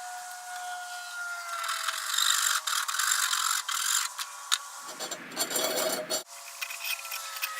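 Workshop metalworking noise: rapid clicking and rattling over a steady whine that slowly falls in pitch, with a louder, rougher noise lasting about a second and a half from about five seconds in.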